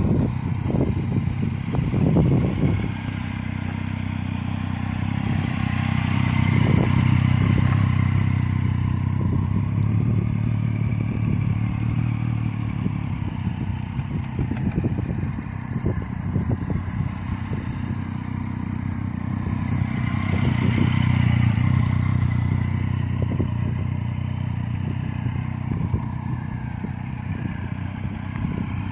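Triumph Street Triple R 675's inline-three engine running at low revs as the motorcycle is ridden slowly in circles, with steady engine hum that swells twice as it comes nearer. Short crackles run through it.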